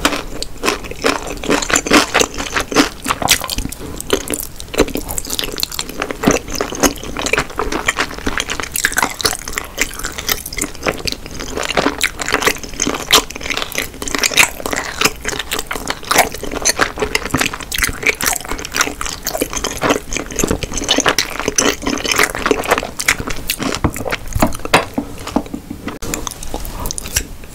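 Close-miked chewing of spicy tteokbokki (chewy Korean rice cakes in sauce): wet, sticky mouth sounds made of many small clicks and smacks.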